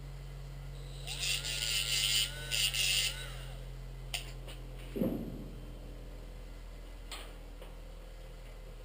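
Power grinder spinning up and grinding sheet metal in two short passes of about two seconds in all, its motor pitch rising at the start and falling away as it stops, while trimming a small patch piece. Then a light click, a knock and another click as the piece is handled.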